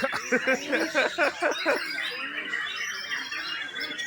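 White-rumped shama (murai batu) singing: a fast run of rich, sweeping notes in the first second and a half, then softer, thinner high notes.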